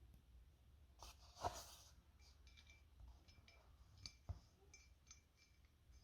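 Faint clicks and light knocks of small carburetor parts being handled, with a sharper knock about a second and a half in and another about four seconds in.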